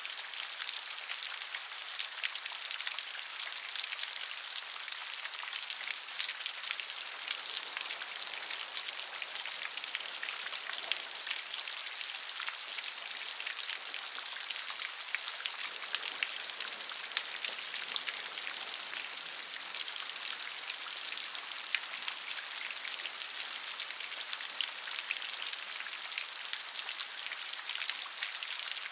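Steady rain: an even, continuous hiss, bright and high-pitched, with countless small drop ticks scattered through it and no change in strength.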